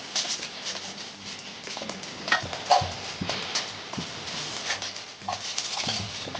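Irregular knocks, clicks and scrapes of plastering work, with trowels and tools striking and scraping on the wall and scaffold boards; a few louder knocks fall in the middle.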